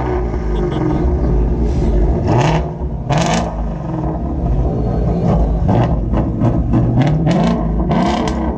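Car engine revved several times in a row, its pitch climbing and falling with each blip over a deep rumble, with short sharp bursts on top.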